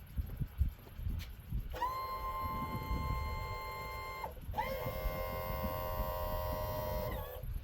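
Warning buzzer of a Yamaha 115 HP two-stroke outboard's controls sounding two long, steady beeps about two and a half to three seconds each with a short gap between, over low wind rumble on the microphone.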